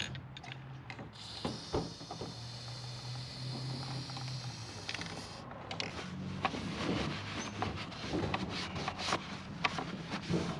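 Motorcycle drive chain and rear wheel being worked by hand during chain waxing: a run of irregular clicks and rattles from about six seconds in, over a low steady hum.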